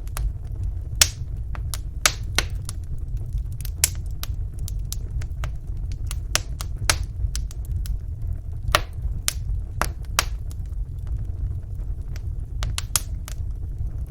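Wood fire burning in a fireplace: small, irregular sharp crackles and pops from the burning logs over a steady low rumble of the flames.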